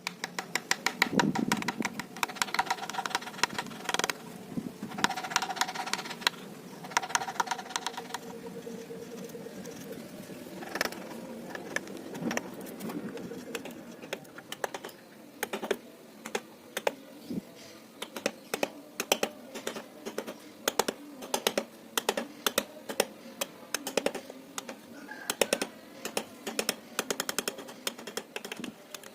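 Carving chisel tapped with a wooden mallet into teak: a long run of quick, light, irregular taps, about two or three a second.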